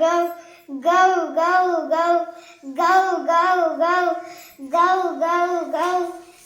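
A voice imitating an eagle's cry for a cartoon eagle: three phrases of about four squealing notes each, every note rising and falling in pitch.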